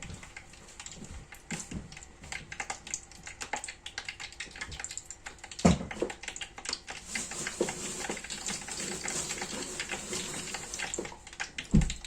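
Hot cooking oil heating in a pot for frying chicken, crackling and spitting steadily. Two dull thumps, one about halfway through and one near the end.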